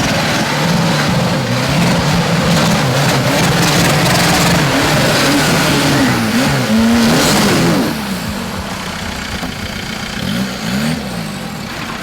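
Off-road 4x4 truck engine revving hard, its pitch climbing and falling again and again. About eight seconds in it drops much quieter, with a couple of short rev blips near the end.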